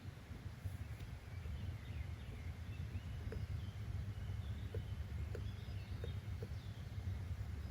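Outdoor nature ambience: scattered faint bird chirps over a steady low rumble, with a few soft taps in the second half.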